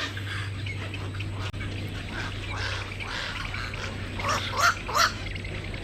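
Three loud, harsh bird calls in quick succession near the end, over a steady low hum and faint background chatter.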